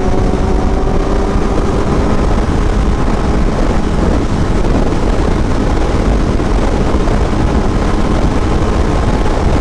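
Kawasaki Z800's inline-four engine running at a steady speed while riding, with wind noise over the microphone.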